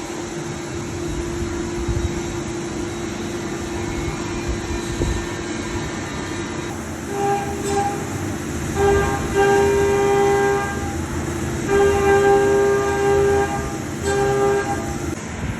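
Haas CNC milling machine cutting a metal clamp bracket: a steady machine whine runs throughout, and from about halfway the cutter engages the part in four passes, each giving a loud, high-pitched ringing tone at the same pitch that starts and stops abruptly.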